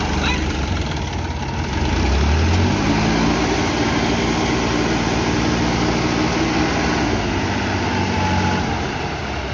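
Massey Ferguson 9500 tractor's diesel engine pulling a loaded sugarcane trolley. It revs up about two seconds in, holds the higher revs steadily, then eases off near the end.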